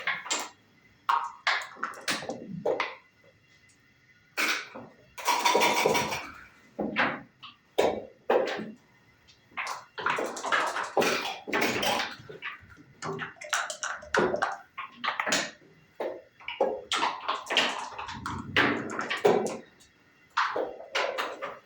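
Backgammon play: dice rattled in cups and thrown onto a board, and checkers clacked down, giving irregular sharp clicks and knocks with short rattling runs about five seconds in and again about ten seconds in.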